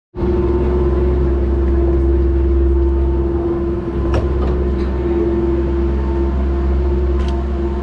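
Steady mechanical hum with a constant pitched drone and a low rumble beneath it, and a few faint clicks.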